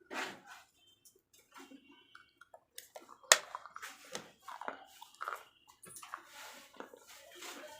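A person biting and chewing slate pencils close to the microphone: irregular dry crunches and crackles, with the sharpest, loudest snap a little before halfway through.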